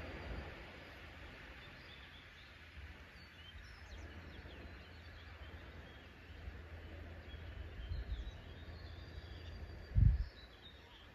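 Outdoor ambience with birds chirping faintly and a steady low rumble of wind on the microphone; a brief, loud low thump about ten seconds in.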